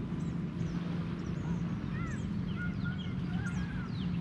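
Songbirds chirping and whistling in short calls and quick downward-sweeping notes over a steady low rumble.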